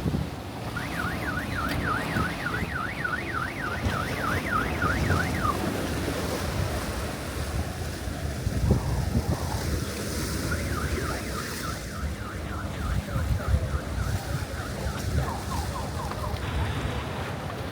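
An electronic alarm warbling rapidly up and down, about three swings a second, in two stretches with a pause between; the second stretch speeds up near its end. Wind buffets the microphone over the wash of surf throughout.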